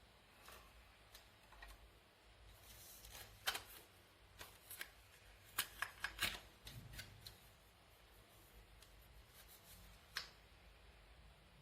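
Faint handling noise: scattered light clicks and taps, bunched together in the middle.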